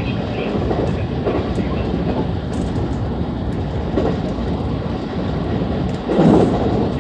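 JR West 223 series electric train running at speed: a steady rumble of wheels on rail with a few light clicks, and one brief louder surge about six seconds in.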